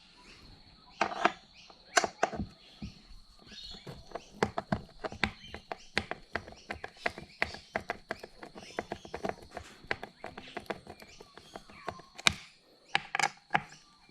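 Hand screwdriver undoing screws on an RC truck's fuel tank: a run of small, irregular clicks and taps, a few a second, with a few louder knocks near the start and again near the end.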